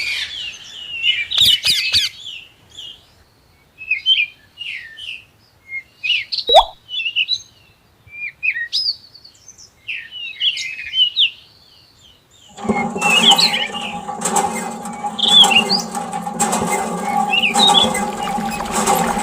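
Birds chirping in short scattered calls. About two-thirds of the way through, a small motor starts and runs steadily, with the birds still chirping over it.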